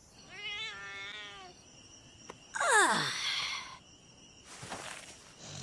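Cartoon sound effects: a wavering, meow-like cry, then a louder falling whistle-like glide over a hissing whoosh, and a fainter whoosh near the end.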